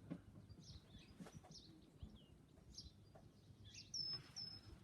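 Faint songbirds chirping, with scattered short high notes and two louder short whistled notes about four seconds in.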